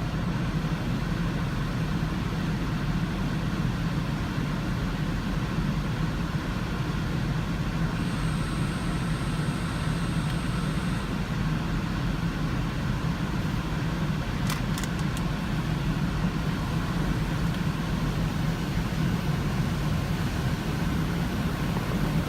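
Steady low hum of an idling car engine, with a few brief clicks about two-thirds of the way through.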